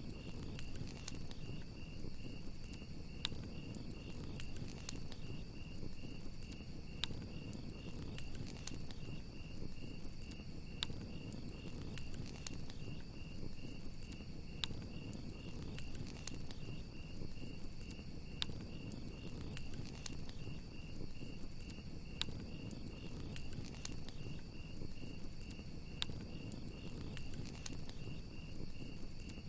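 Campfire crackling, with scattered sharp pops over a low rush of burning wood, while crickets chirp in a steady, high, rapidly pulsing trill.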